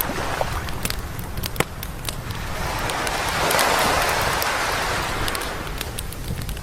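Campfire crackling and popping, with sharp snaps scattered throughout, while a sea wave breaks and washes up the beach, swelling to its loudest a little past the middle and then ebbing away.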